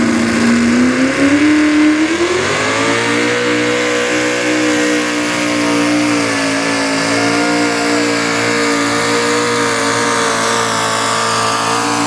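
Super stock two-wheel-drive pulling truck engine at full throttle under the load of the sled. It climbs in revs over the first few seconds, then holds high and steady with slight wavering as the truck pulls down the track.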